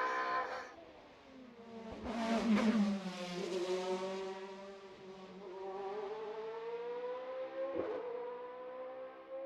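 Hill climb race car engine at full throttle: a note fades away in the first second, a louder pass comes about two seconds in with the pitch dropping, then a long pull with the pitch slowly rising as the car climbs, broken by a short crack near the end.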